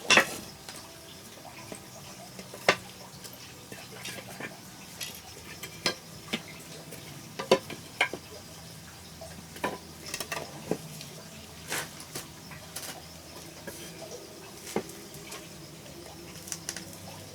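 Irregular light knocks and clinks, a dozen or so spaced unevenly, over a faint steady low hum.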